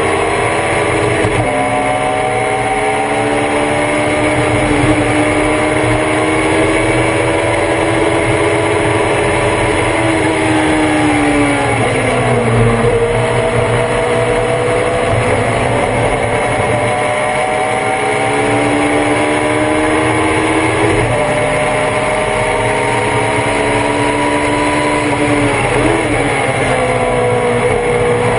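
Thunder Roadster race car's engine at racing speed, heard on board: the pitch climbs under acceleration, drops at upshifts about a second in and again around 21 seconds, and falls steeply around 12 and 26 seconds while braking and downshifting.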